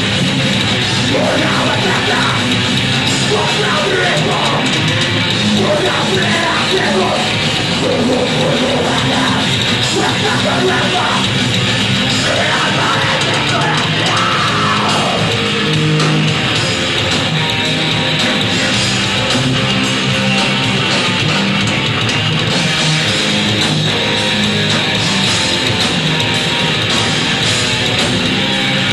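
Live heavy rock band playing loud and steady with distorted electric guitars, and shouted vocals through roughly the first half.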